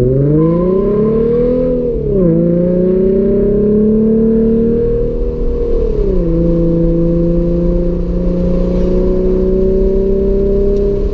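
Car engine accelerating hard through the gears: the revs climb, drop at an upshift about two seconds in, climb again, drop at a second upshift about six seconds in, then hold steady at cruising speed.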